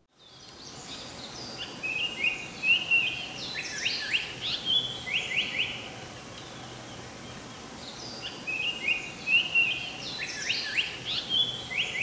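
Japanese paradise flycatcher singing its 'tsuki-hi-hoshi, hoi hoi hoi' song, a run of clear whistled notes ending in quick descending notes, heard twice with the second phrase starting about two-thirds of the way in. A steady background hiss runs under it.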